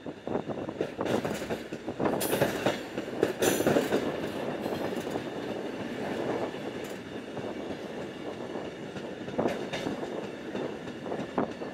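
Passenger train running on the rails: a steady rumble and rail clatter, with a brief high wheel screech about two to four seconds in.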